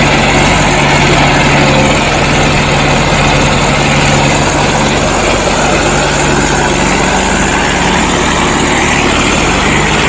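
Mahindra 585 XP Plus DI tractor's diesel engine running steadily and loud.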